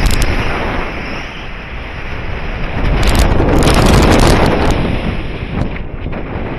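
Wind rushing over the microphone in paraglider flight, a loud steady buffeting that swells to its strongest about three and a half seconds in.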